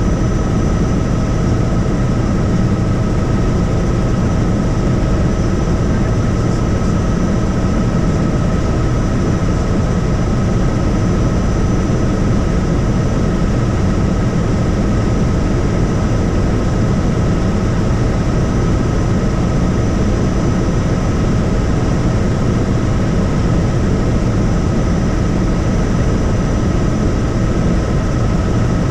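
Helicopter in flight: a steady, loud rotor and engine drone with a constant high whine running over it.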